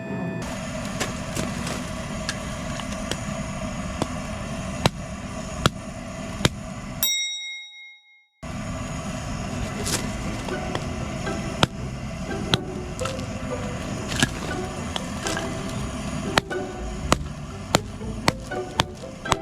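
Firewood burning in a wood stove, crackling with irregular sharp pops over a steady rushing fire noise. The sound cuts out for a moment about seven seconds in, then resumes.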